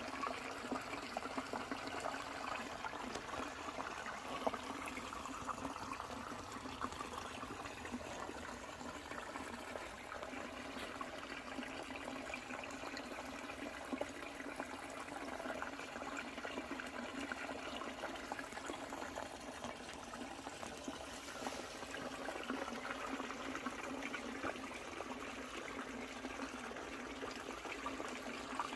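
Creek water running steadily, a continuous babbling trickle.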